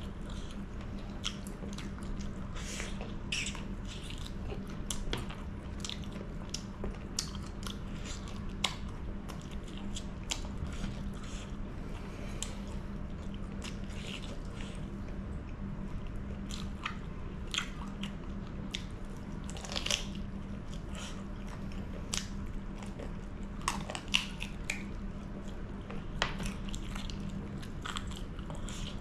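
A person chewing and biting into chicken curry with dry bamboo shoot, close to the microphone: many short, sharp mouth clicks and bites, over a steady low hum.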